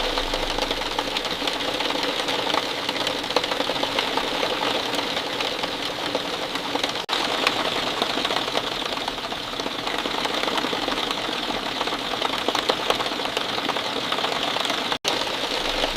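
Steady falling rain: a dense hiss of many fine drop ticks. It cuts out for an instant about seven seconds in.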